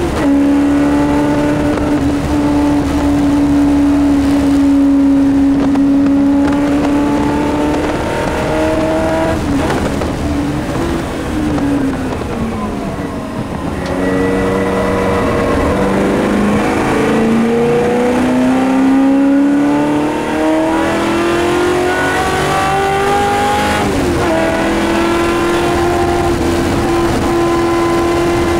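Shelby Mustang GT350R's V8 engine heard from inside the cockpit, racing at full effort. The engine note climbs, drops for a few seconds near the middle as the driver lifts off for a corner, then climbs again steadily and changes gear once near the end before holding a high, even note.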